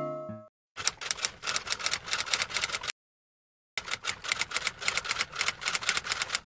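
Typewriter typing sound effect: two runs of rapid key clacks, each two to three seconds long, with a second of silence between them. The tail of background music fades out at the start.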